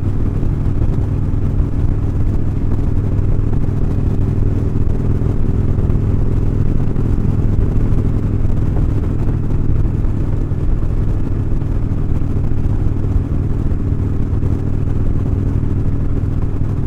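Motorcycle engine running at a steady cruising speed while riding, with road noise.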